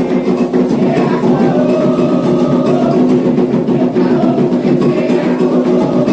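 Candomblé ceremonial music: atabaque hand drums beating a fast, dense, unbroken rhythm, the rum played for the orixá Ogum.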